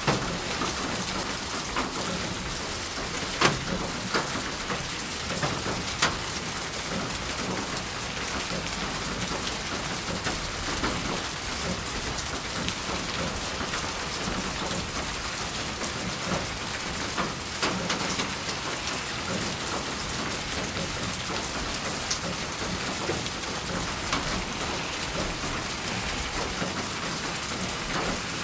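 Steady rain falling on a surface: an even hiss with a number of louder single drops tapping out of it here and there.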